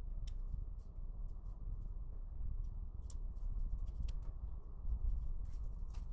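Scattered light clicks and scrapes at an irregular pace over a low steady rumble.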